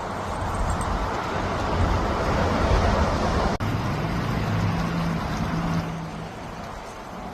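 A car driving: steady road and engine noise with a low hum, swelling through the middle. There is a brief dropout about three and a half seconds in.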